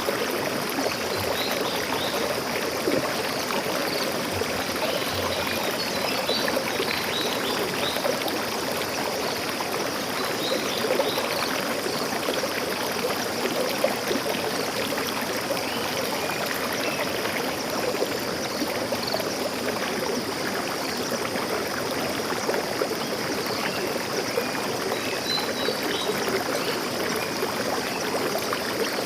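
A stream of water flowing steadily over rocks, with a few faint, short high bird chirps here and there.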